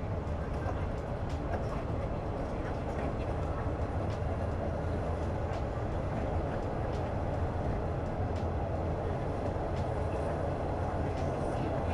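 Moving train heard from inside the carriage: a steady low rumble of the wheels running on the track, with faint scattered clicks.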